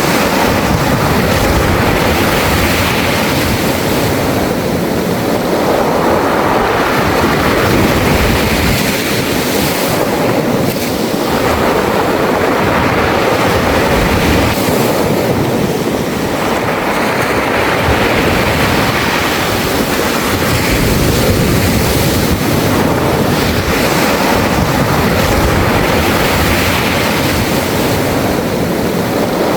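Sea waves surging in and draining back over a beach of round pebbles, the water and rolling stones making a dense hiss and clatter that swells and eases about every five to six seconds.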